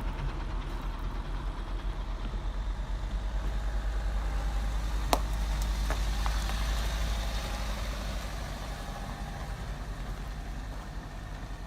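Car engine and road noise, a steady low rumble, with one sharp click about five seconds in.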